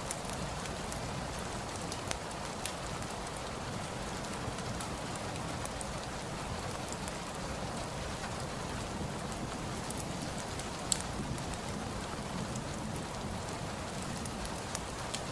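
Steady rain falling, an even hiss of drops, with a few sharp ticks now and then, the loudest about eleven seconds in.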